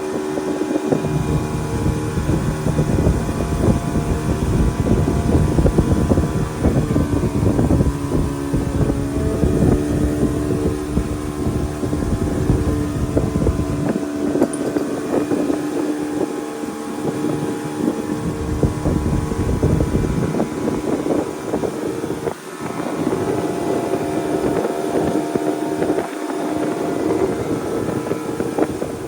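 A motorboat's engine running steadily under way, a constant drone with a steady hum. Wind buffets the microphone in gusts, strongest in the first half.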